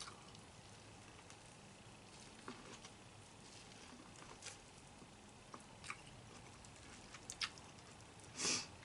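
Faint eating sounds: scattered small clicks and mouth noises of chewing, with a brief louder rush of noise near the end.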